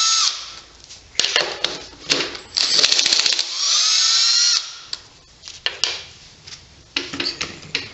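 Power drill spinning in short bursts while backing out screws from an engine, each burst a high whine that rises in pitch as it spins up and then holds. Short clicks and knocks of parts are heard between the bursts.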